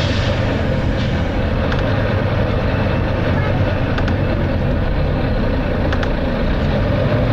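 Volvo B9TL double-decker bus heard from inside while under way: its diesel engine drones steadily under road noise, with a few light clicks of rattle.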